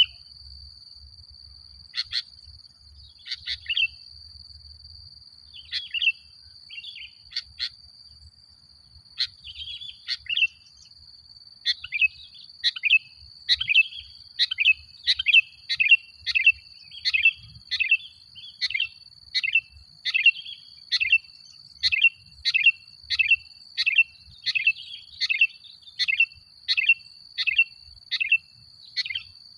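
Male sooty-headed bulbul (kutilang) calling in short, sharp chirping notes. They come scattered at first, then in a rapid, even run of about two a second from about twelve seconds in.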